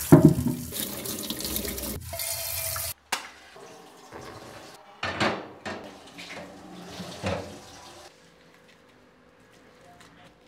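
Tap water running hard into a stainless steel sink as potatoes are rinsed under it, stopping abruptly about three seconds in. Two shorter, quieter sounds follow as potatoes go into a pot of water.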